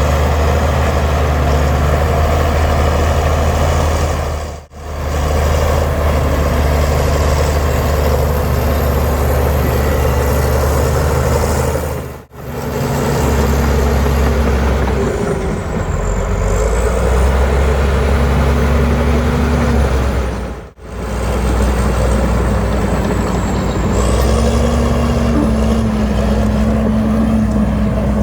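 Heavy diesel engines of a bulldozer and dump trucks working soil, running steadily with a changing engine note. The sound drops out briefly three times.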